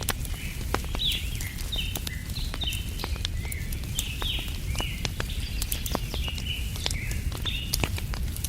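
Wood fire crackling with frequent sharp pops, under a steady low rumble. Birds chirp in short, quick notes, several a second, throughout.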